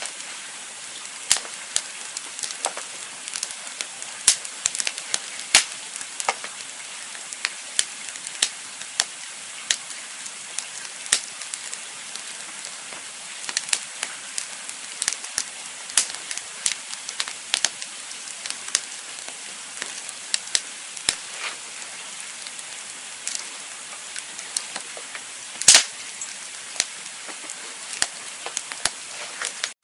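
Campfire crackling: irregular sharp pops and snaps over a steady soft hiss, with one louder pop near the end.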